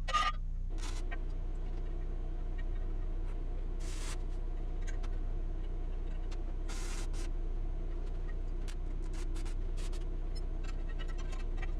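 Steady low machine hum that strengthens just under a second in, with short bursts of noise about four and seven seconds in and a scatter of light clicks.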